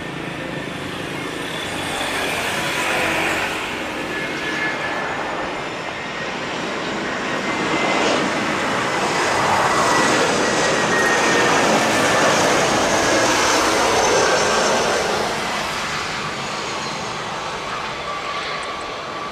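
Airbus A320-216 jet landing, its CFM56 turbofan engines heard as a rushing noise that swells to its loudest about ten to fifteen seconds in, then fades. A faint whine that falls slightly in pitch runs through the loudest part.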